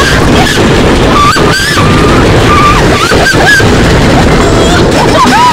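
Wind roaring over the microphone and rattling noise from a wooden roller coaster in motion, loud and steady. Several short high-pitched gliding squeals rise and fall over it, about a second and a half in, around three seconds in, and near the end.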